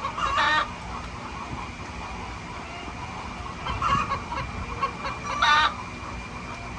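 Chickens clucking: three short calls, near the start, about four seconds in, and a louder one about five and a half seconds in.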